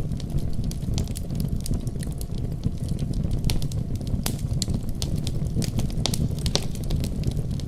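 Wood fire crackling, with frequent irregular sharp pops, over a steady deep rumble of storm wind.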